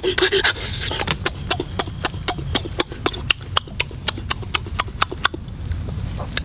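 Close-up chewing of roasted chicken: a fast run of wet smacking clicks, about four or five a second, over a low steady rumble.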